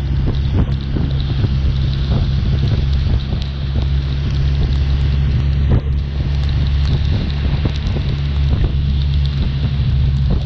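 BMW R1200RT's flat-twin engine running steadily at cruising speed, under heavy wind rush over the microphone, with scattered sharp ticks of rain hitting it.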